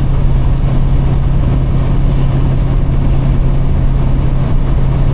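Semi truck's engine and road noise heard inside the cab while driving, a steady low drone with a constant deep hum.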